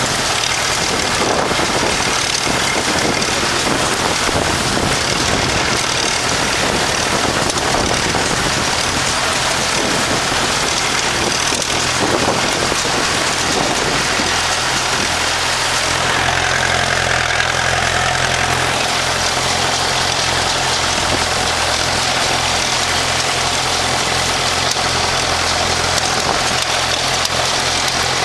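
Tractor engine running steadily under heavy wind noise on the microphone.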